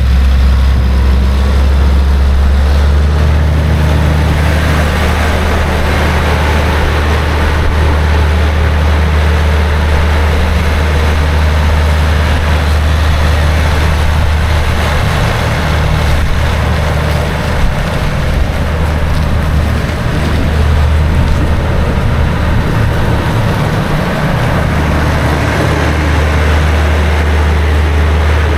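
2006 John Deere 9320 articulated four-wheel-drive tractor's six-cylinder diesel engine running steadily, its note shifting slightly about three seconds in.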